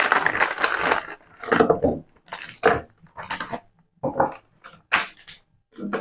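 Helmet-mount and phone-holder kit parts being handled and rummaged through: a string of short, irregular rustles and clacks, with a longer stretch of rustling in the first second.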